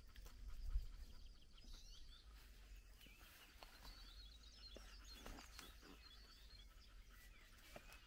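Faint birds chirping and twittering, with a low hum of outdoor background noise.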